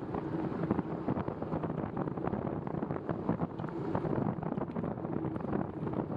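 Wind rushing over the microphone of a moving bicycle, with a steady hiss of tyres on wet pavement and a crackle of small knocks throughout.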